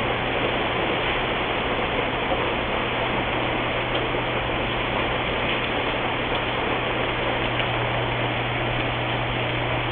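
Heavy rain falling steadily in a thunderstorm, a constant hiss of rain on the ground, with a steady low hum underneath.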